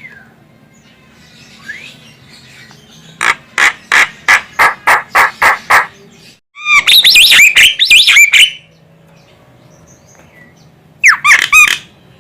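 Javan myna calling: a run of about nine evenly spaced harsh notes, then a loud burst of rapid, varied whistles, and near the end a shorter burst of the same whistles.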